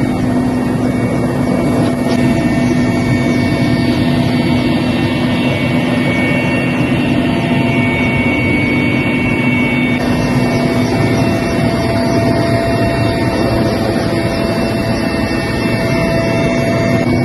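Helicopter running steadily: a loud, constant engine drone with several steady tones held over it.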